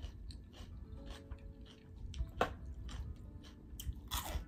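Close-miked chewing of a mouthful of salad, wet and with small crunches and mouth clicks, a sharper click about halfway through, over faint background music.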